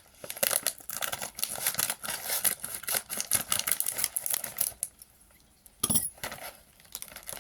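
Crinkly snack bag of crab-shaped chips being torn open and handled: a dense crackle for about five seconds, then a few separate rustles.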